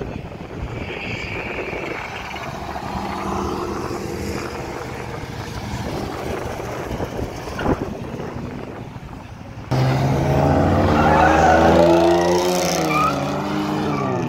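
Performance car engines accelerating away one after another. About ten seconds in, an abrupt cut brings in a louder engine revving up and down hard, with tyre squeal from a car pulling away in a burnout.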